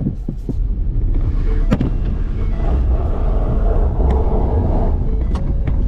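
A car running on the move, with a heavy low rumble of engine and road noise. A rougher hiss swells from about halfway through and then fades, with a couple of sharp clicks.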